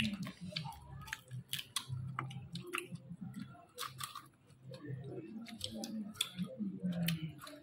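A person chewing and smacking while eating by hand, with many short, sharp, wet clicks from the mouth.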